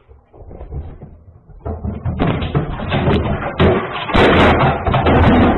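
Loud, jumbled thumping and knocking with rough noise, growing much louder about two seconds in.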